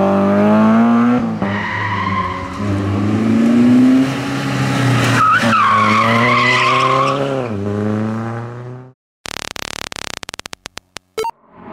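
Rally car engine revving hard and rising through the gears, with tyres squealing through a corner from about five seconds in. The engine then drops off and the sound cuts out abruptly near the end, followed by a stuttering run of rapid clicks.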